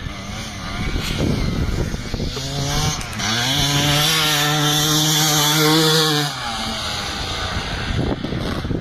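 Motocross bike engine revving: from about two seconds in its pitch climbs, holds high and loud for about three seconds at full throttle, then drops away.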